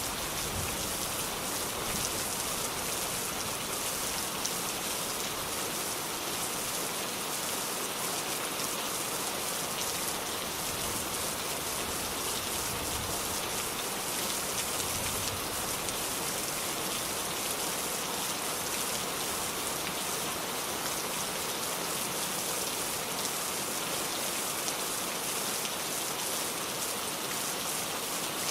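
Steady rain falling and pattering on surfaces, an even hiss of many drops without thunder.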